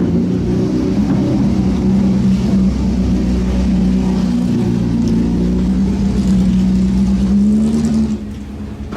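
Jaguar XJR-11's 3.5-litre twin-turbocharged V6 running loud at a steady engine speed, rising a little in pitch near the end. The level drops off sharply about eight seconds in.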